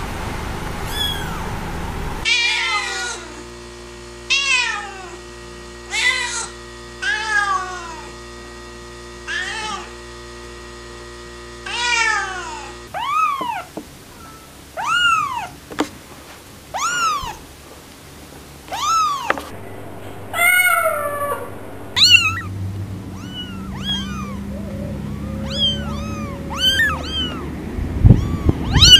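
Young kittens mewing: many short, high-pitched calls that rise and fall, about one every second or two, from several kittens.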